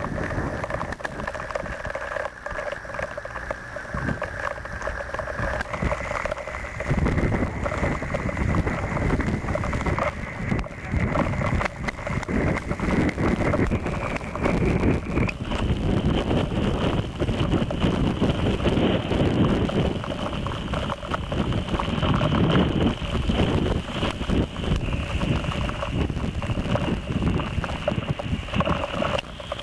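Strong typhoon wind buffeting the microphone, heavier from about seven seconds in. Under it a machine whine runs steadily and steps up in pitch twice.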